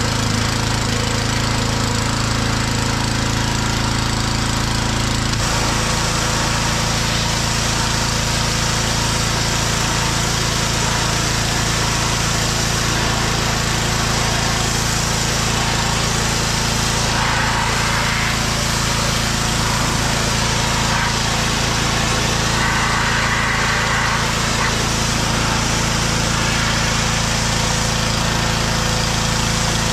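Small gasoline engine running steadily at a constant speed, with a continuous hiss over it, typical of an engine-driven cleaning machine such as a gas pressure washer in use.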